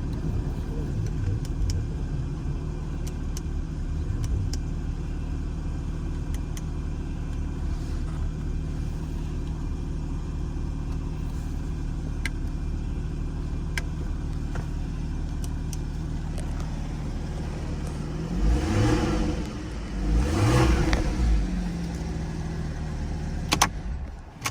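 2014 Porsche Cayman's flat-six engine idling steadily, then blipped twice about two-thirds of the way in, each rev rising and falling back to idle. The engine cuts off at the very end.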